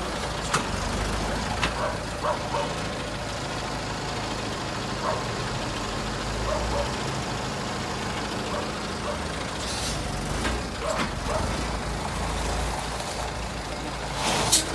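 Heavy truck engine running with a steady low rumble, with short hisses of air about ten seconds in and again near the end.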